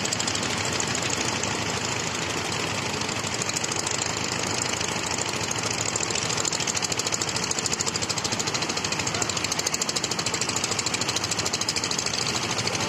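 An engine running steadily close by with a fast, even knocking clatter.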